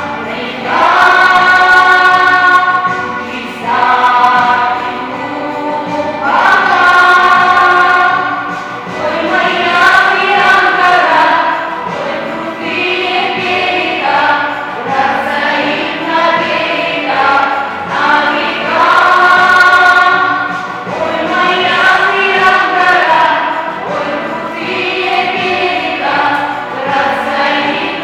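Children's vocal ensemble singing a song in harmony, with long held notes.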